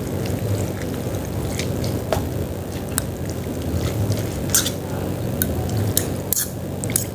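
A spoon stirring soto soup in a bowl: liquid sloshing, with scattered sharp clinks of the spoon against the bowl.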